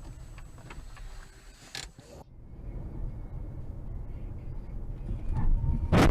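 Low road and engine rumble of a car heard from inside, with a few creaks and clicks. After a change about 2 seconds in, the rumble grows steadily louder, and a sharp knock comes at the very end.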